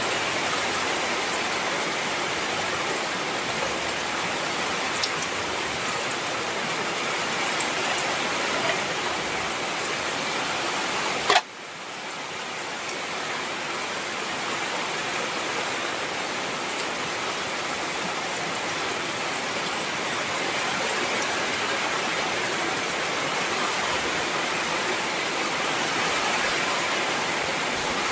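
Heavy rain falling as a steady hiss. About eleven seconds in there is a sharp click, and the rain drops away and swells back over the next few seconds.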